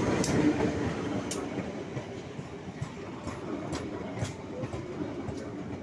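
Train passing by, its wheels rumbling and clicking over the rail joints, the noise slowly fading as it moves away.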